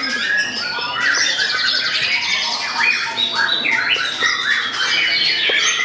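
White-rumped shama (murai batu) song: a dense, unbroken stream of short whistled phrases and rapid notes crowding over one another, as from several birds singing at once.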